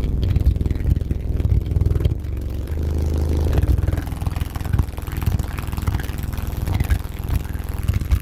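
Car audio subwoofers playing very deep bass at high volume, heard as a steady low rumble with buzzing rattle. This is the system's response to a request for an 18 Hz demo.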